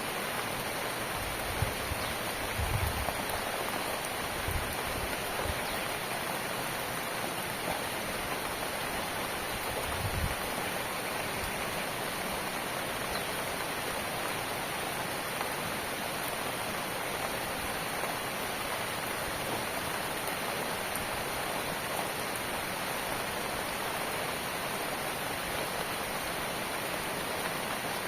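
Steady rain falling, an even hiss with no let-up, with a few soft low thuds in the first ten seconds or so.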